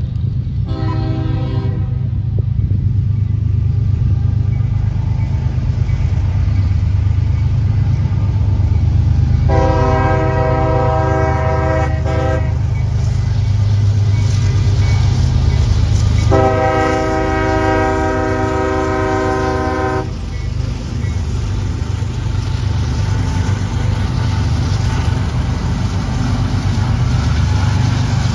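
Train passing with its locomotive horn sounding a multi-note chord: a short blast about a second in, then two long blasts of about three seconds each, over the train's steady low rumble.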